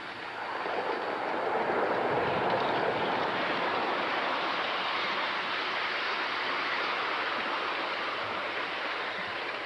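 Atlantic-type live steam locomotive running, a steady hiss of steam that swells in over the first two seconds, with no clanking from the rods.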